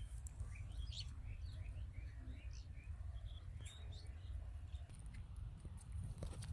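Small birds chirping: many short, high calls in quick succession over a steady low rumble.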